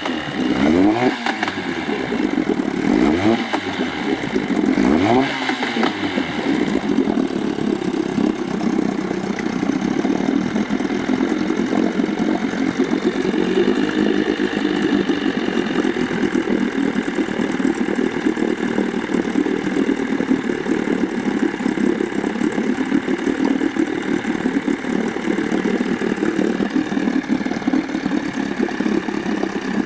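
Veterok-8 two-cylinder two-stroke outboard motor revved up and let back down about three times in the first six seconds, then running steadily with a fine rattle. The owner is asking what causes the knocking it makes when the revs are dropped.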